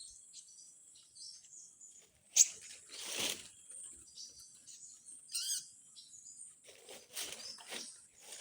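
Small birds chirping and calling, with short high chirps throughout and a falling run of notes about five seconds in. A sharp click about two seconds in, and rustling around three seconds and again near the end, come from close handling.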